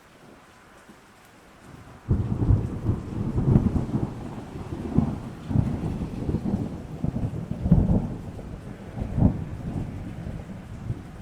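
Thunderstorm: steady rain, then about two seconds in thunder breaks suddenly and keeps rumbling low in repeated swells over the rain.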